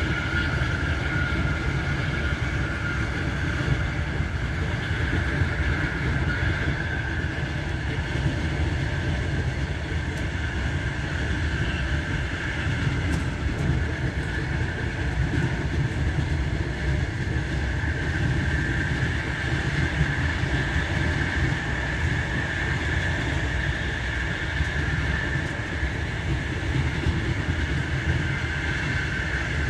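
Passenger train running at speed, heard from inside the carriage: a steady low rumble of wheels on rail with a high whine that drifts slightly in pitch.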